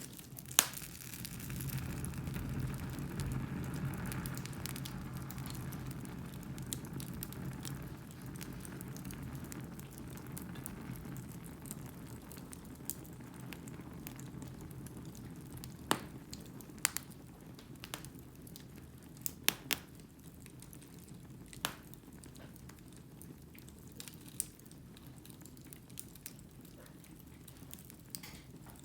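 Wood fire burning in a fireplace: a soft steady rush of flame, fuller in the first several seconds and then easing off, with scattered sharp crackles and pops from the burning logs.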